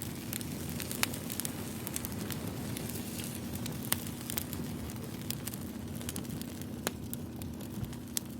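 Campfire crackling: scattered pops and snaps over a steady low hum.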